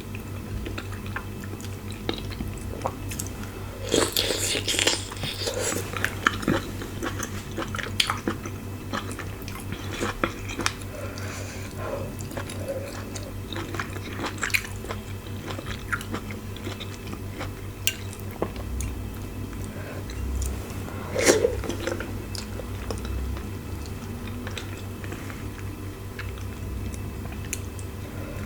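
Close-miked chewing and biting while eating fufu with meat and soup: wet mouth smacks and clicks, louder about four seconds in and again about twenty-one seconds in.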